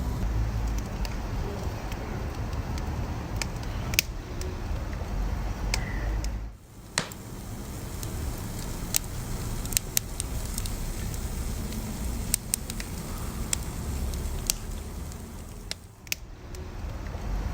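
Wood fire burning, with a steady low rumble of the flames and sharp, irregular crackles and pops from the burning logs. The sound dips away briefly twice.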